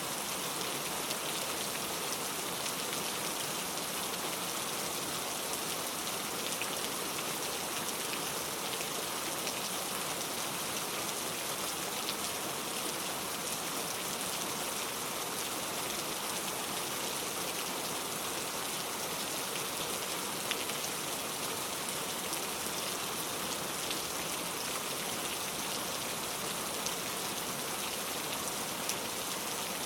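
Steady rain falling, an even hiss of drops with scattered individual drop ticks, without thunder.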